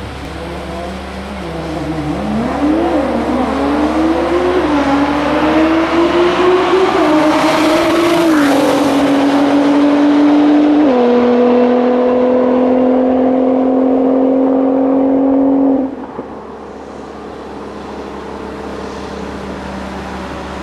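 Nissan GT-R R35's twin-turbo V6 launching at full throttle on a drag run. The engine note climbs in pitch and drops back at each upshift, then holds a steady note. It cuts off abruptly about 16 seconds in, leaving a steady low hum.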